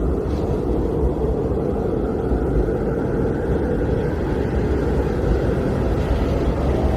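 Blizzard wind blowing steadily, a low, deep rush of noise that swells and eases slightly.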